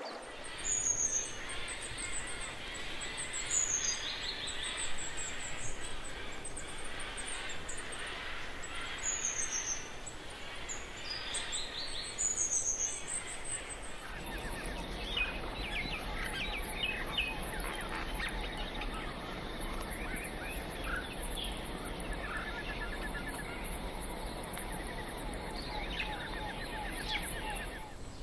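Wild birds calling over a steady hiss of forest ambience: high, falling chirps every few seconds, then, about halfway through, a busier chorus of rapid chirps and trills.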